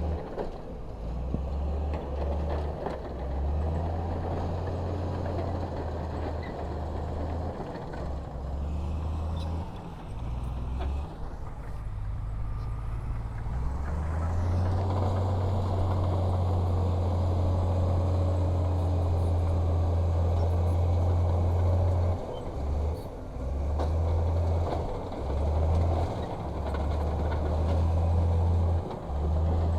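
Diesel engines of heavy earthmoving machinery running, a low rumble that swells and drops repeatedly.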